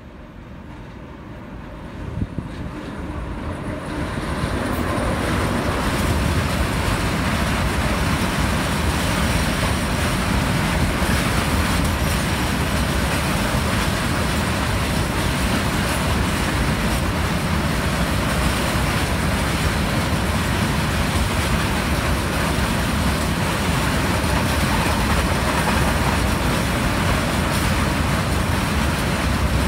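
A train approaching and growing louder over the first few seconds, then passing close by with steady, loud rolling noise from its wheels on the rails.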